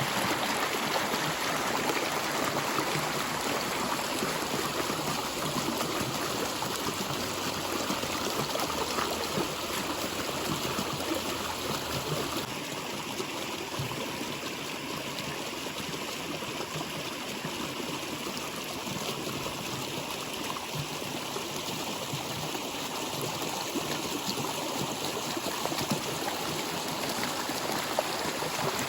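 Water flowing and trickling steadily in a stream, an even rushing sound with no breaks.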